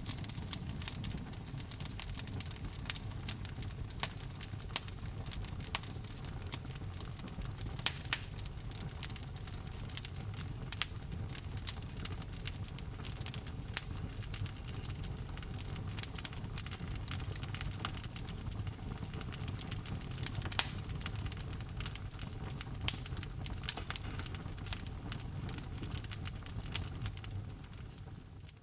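Log fire burning in a fireplace: irregular sharp crackles and pops from the burning wood over a steady low rumble of the flames, fading out near the end.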